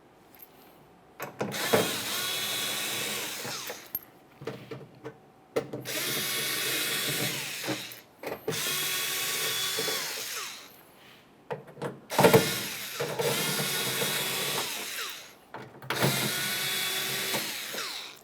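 Power driver spinning out T27 Torx screws from the tailgate's plastic inner panel, in five runs of about two to three seconds each, with short clicks of handling between them.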